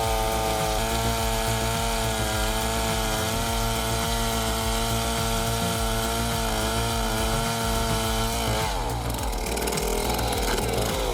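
Chainsaw running at high revs, holding a steady pitch with slight dips as it cuts. About eight and a half seconds in, the revs drop away.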